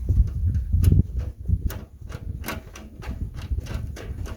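Irregular sharp clicks and light knocks, several a second, over a low rumble that is loudest in the first second.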